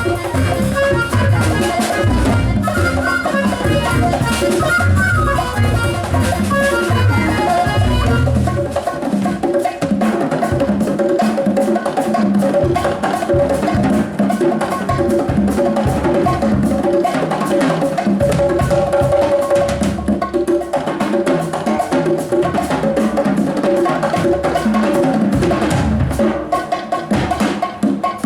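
Live band music with prominent drums and percussion. The heavy bass and drums drop away about eight seconds in, leaving lighter, busy percussion over a held note.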